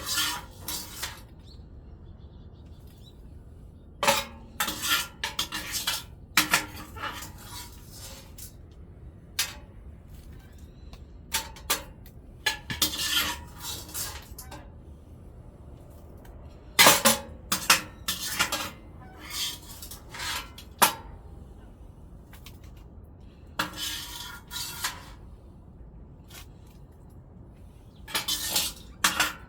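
Metal tools clanking and scraping against a wood-burning stove during cleaning, in irregular bursts of sharp metallic clinks and scrapes with short pauses between them.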